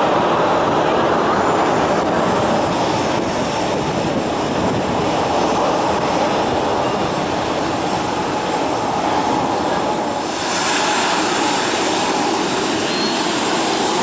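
Passenger airliner's engines running loud and steady close by, with a sharp high hiss joining about ten seconds in.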